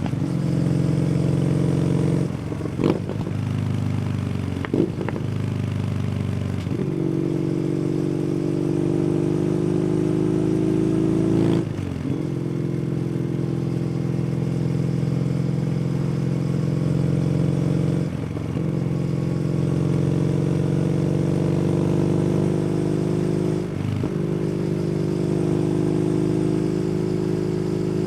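Kawasaki W800's air-cooled parallel-twin engine, breathing through an SC Project aftermarket exhaust, pulling steadily while riding. Its note is broken by brief throttle changes or gear shifts several times, each a short dip or sharp change before it settles again.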